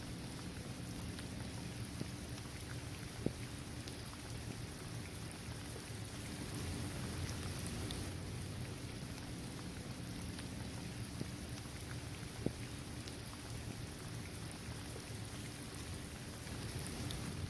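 Steady rain falling on a hard outdoor court, trees and grass, with scattered individual drops ticking. Two sharper drop clicks stand out, about three seconds in and again near twelve seconds.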